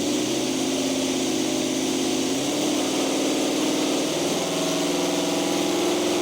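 Vehicle engine running through a newly fitted exhaust, holding a steady, even note that shifts slightly in pitch about two and a half and four seconds in.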